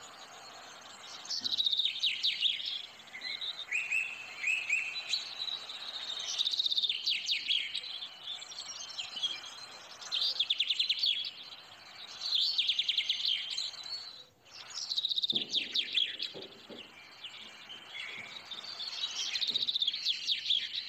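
Small birds chirping in rapid trills, coming in bursts every couple of seconds.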